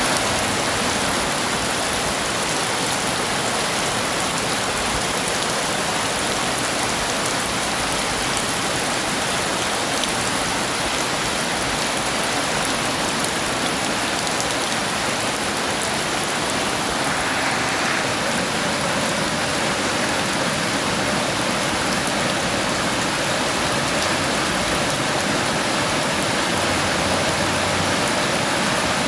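Heavy rain falling steadily: a dense, even hiss of downpour with no break or change.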